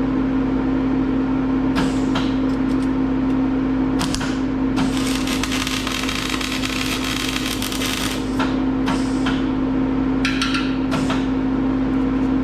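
MIG welder arc crackling in several short tack bursts and one longer bead of about three seconds, over a steady electrical hum.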